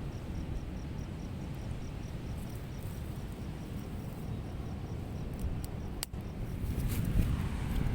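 Steady low outdoor rumble of wind, with a faint, regular high chirp about three times a second that stops a little past halfway. A single sharp click about six seconds in, then the wind rises near the end.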